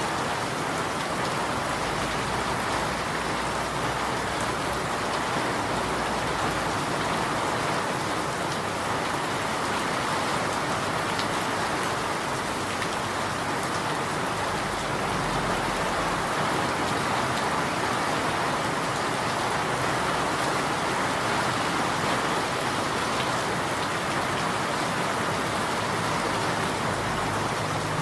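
Steady rain falling: an even hiss of many drops at a constant level.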